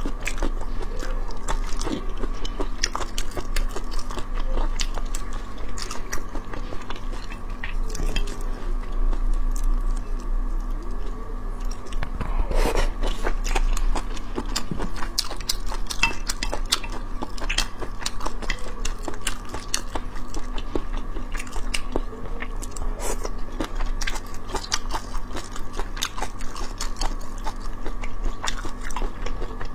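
Close-miked chewing and biting of soft, springy sea snail whiskers (海螺须) dressed in scallion oil. The chewing is wet, with light crunches from the vegetables and scattered sharp clicks.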